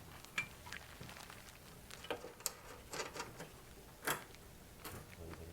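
Scattered light metal clicks and taps, a handful of single strikes, the loudest about four seconds in, from hand tools and coilover parts being handled during reassembly.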